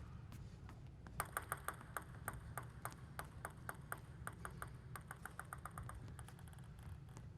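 Plastic table tennis ball clicking: a quick run of sharp ticks, about four to five a second, starting about a second in and stopping near the end.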